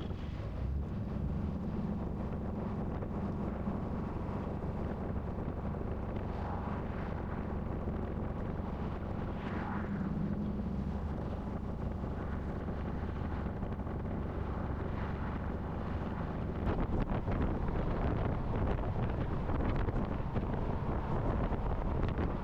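Heavy truck driving on the road, a steady low engine and road rumble with wind buffeting the microphone; it grows louder and rougher about 17 seconds in.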